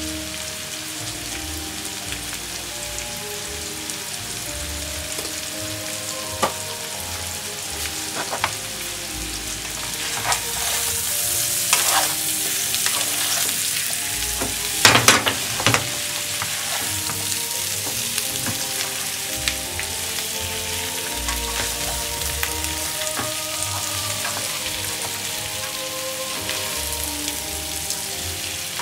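Sliced potatoes, bacon and onion frying in olive oil in a frying pan, a steady sizzle that grows louder about a third of the way in. A slotted spatula turns them, with a few sharp knocks and scrapes against the pan around the middle.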